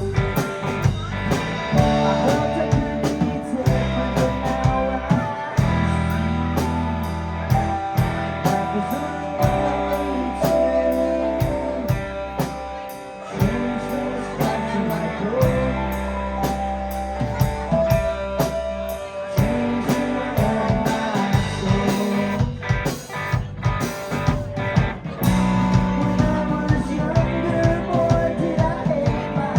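A live rock band playing a song: electric guitar, bass and keyboards over a drum kit with steady cymbal strokes.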